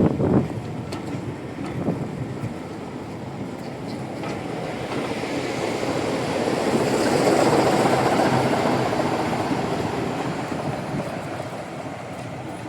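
A diesel train passing, growing louder to a peak a little past the middle and then fading away, after two sharp knocks at the start.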